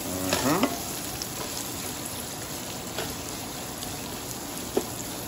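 Shrimp, bacon, onion and garlic sizzling steadily in oil in a non-stick pan, with a few light taps of a wooden spatula as the food is stirred.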